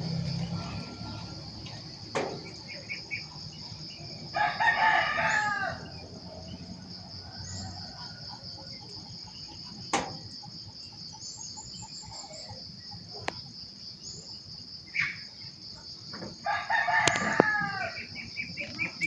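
A rooster crowing twice, each crow about a second and a half long. A steady high pulsing insect buzz runs underneath, with a few sharp clicks.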